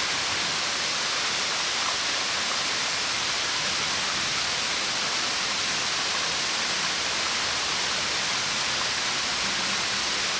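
Waterfall, about 30 m high and split into branches, falling onto rock and pool in a steady, unbroken rush of water with a hiss-heavy top end.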